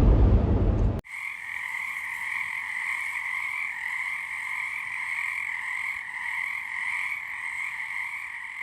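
A low rumble cuts off suddenly about a second in. It gives way to a dense, steady chorus of many frogs calling together, which slowly fades near the end.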